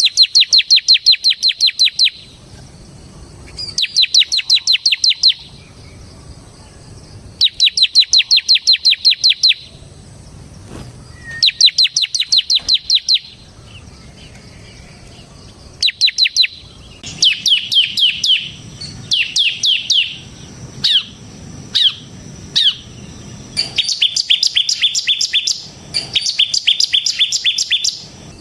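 Ciblek (bar-winged prinia) singing in the rapid, drill-like 'ngebren' style: bursts of fast, sharp, high repeated notes lasting a second or two, coming every few seconds. Past the middle the bursts break into short downward-sliding notes before the fast bursts come back.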